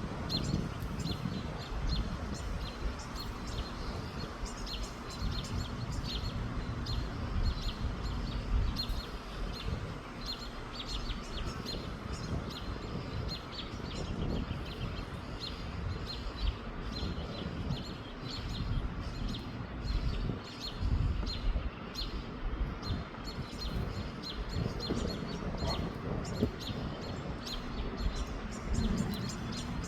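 Small birds chirping throughout: many short, high notes in quick succession. Underneath is a gusty low rumble of wind on the microphone.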